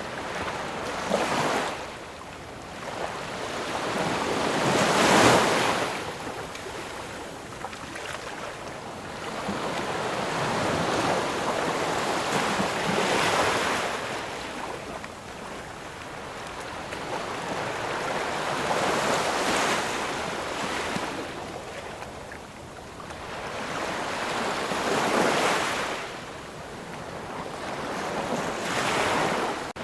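Ocean surf: waves breaking and washing ashore, each swell rising and falling away, about one every six seconds, the loudest about five seconds in.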